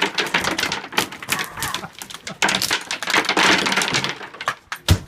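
Lath-and-plaster wall being broken apart: a rapid, uneven run of cracks and clatters from plaster and wooden lath breaking.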